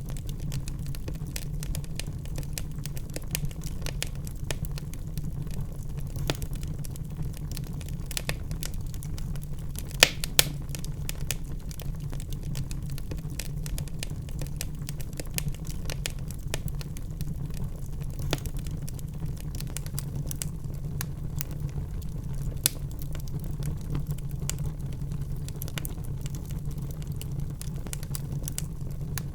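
Wood fire in a fireplace crackling, with irregular small pops over a steady low rumble; one louder pop about ten seconds in.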